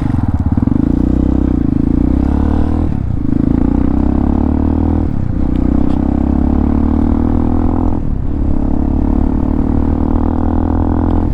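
Hawk 250 motorcycle's single-cylinder engine, fitted with a Motocults stage 4 kit, pulling up through the gears as the bike accelerates. The pitch climbs and then drops sharply at three upshifts, about three, five and eight seconds in, and then runs steadier.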